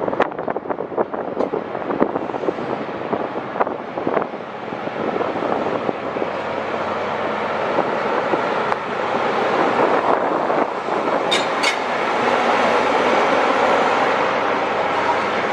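A train running through the station, its wheels clicking over rail joints in the first few seconds, then a steady running noise that grows louder through the rest.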